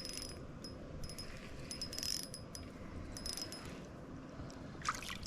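Faint light metallic clicking and jingling in short clusters about once a second, from fishing tackle as a small bass is reeled in and landed.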